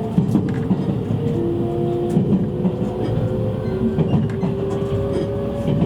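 Inside a JR East E653 series electric multiple unit's motor car while it runs: steady running rumble with a motor whine of several tones slowly rising in pitch, and light clicks of the wheels over the rail.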